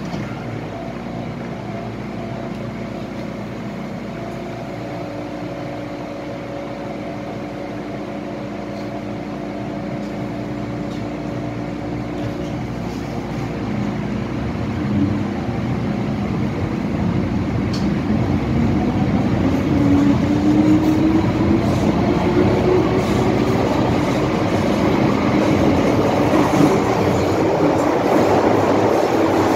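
MTR M-Train electric multiple unit pulling away from a station. A steady electrical hum gives way, from about halfway through, to a motor whine rising in pitch as the train accelerates, and the running noise grows steadily louder.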